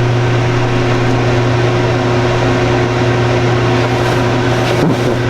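A sailboat air conditioner's raw-water (seawater) pump running with a steady electric hum while moving no water through the cooling line.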